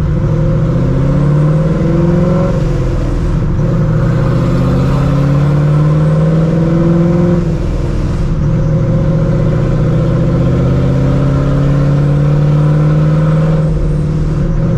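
Vortech-supercharged Ford 4.6 2V V8 in a Mustang GT, running with its exhaust cutouts open off the X-pipe, pulling through the gears. The engine note rises slowly three times, dropping back at each upshift: about three seconds in, about halfway, and near the end.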